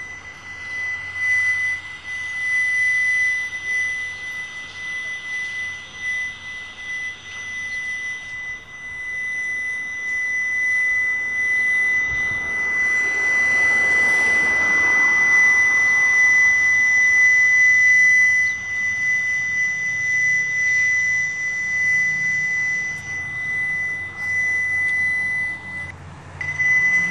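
An unexplained loud, steady, high-pitched hum heard from the sky, a continuous buzzing drone. A rushing noise swells and fades around the middle, and the tone breaks off for a moment near the end.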